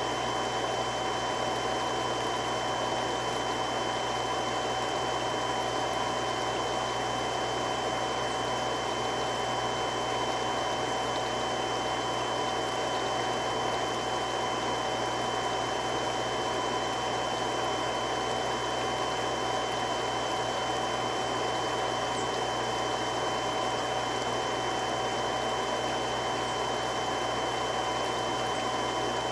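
Three-stage irrigation water pump running steadily: an even rushing noise with a few steady whining tones over it.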